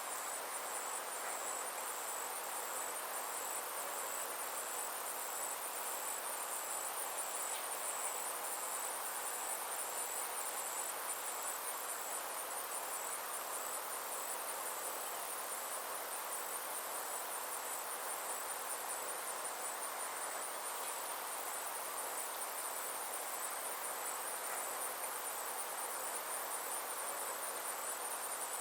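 A chorus of insects making a continuous, high-pitched trill of fast, even pulses over a soft, steady background hiss.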